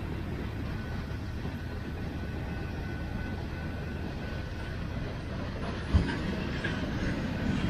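Freight train cars rolling past on the track, covered hoppers and tank cars: a steady low rumble of wheels on rail, with a single sharp thump about six seconds in.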